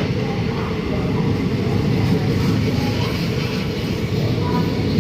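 Steady low rumble of an Indian Railways train in motion, with faint voices in the background.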